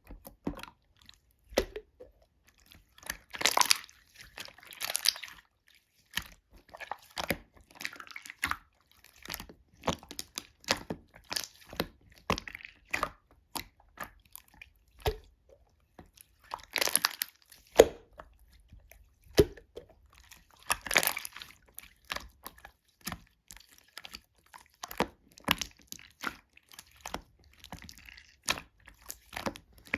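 Slime being squeezed, poked and stretched by hand, making irregular sticky clicks and pops, with a few longer crackling stretches.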